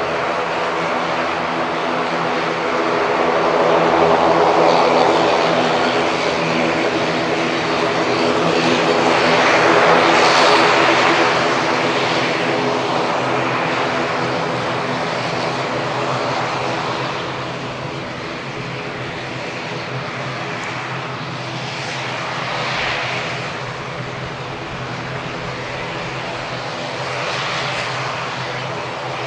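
ATR 42-600's Pratt & Whitney PW127M turboprop engines running, with a steady propeller drone of several stacked tones under a rushing noise that swells and fades several times.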